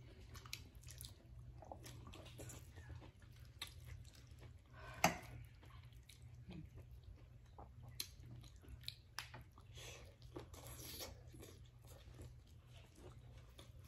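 Quiet chewing and mouth sounds of people eating, with scattered small clicks and taps and one sharper click about five seconds in.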